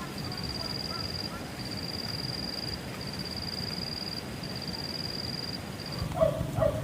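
An insect trilling in bursts of about a second with short gaps, over a low rushing background. Near the end it stops and two short, louder animal calls follow.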